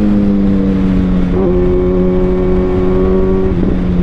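A 2021 Kawasaki Ninja ZX-6R's 636 cc inline-four engine running hard under way, its pitch sagging slowly with two brief breaks, with low wind rush.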